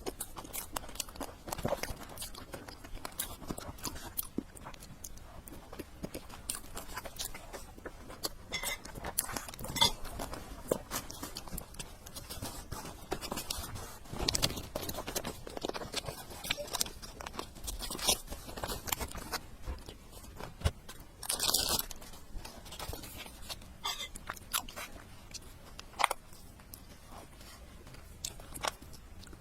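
Close-miked eating: chewing, biting and crunching, a dense run of small irregular clicks and crackles, with a louder hissy burst about twenty-one seconds in.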